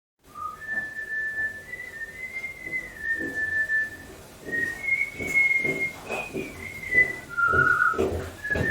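A person whistling a slow tune, held notes stepping up and down, with irregular dull knocks or thumps underneath that grow heavier near the end.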